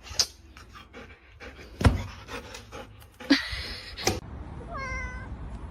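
A dog panting in quick short breaths, with a brief high-pitched whine near the end.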